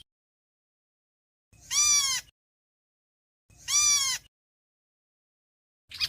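Chim héc xoan bird giving its flock call: two drawn-out calls about two seconds apart, each rising then falling in pitch, with a third beginning right at the end.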